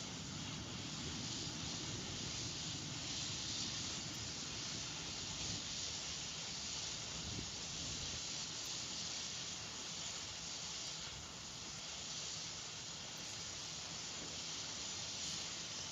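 Steady hiss with a low rumble beneath it, even and unchanging throughout.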